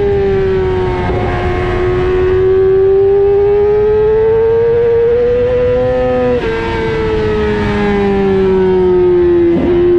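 Sportbike engine running at high revs, heard onboard at speed, its note rising and falling slowly with the throttle through the corners. The note breaks off briefly and settles lower about six and a half seconds in, and dips again briefly near the end.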